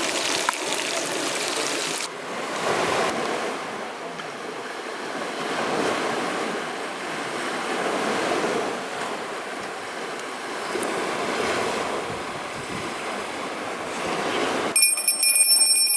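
Small waves washing onto the shore, swelling and easing every few seconds, with some wind. It opens with a brighter hiss that stops suddenly two seconds in, and a high ringing tone of several pitches starts near the end.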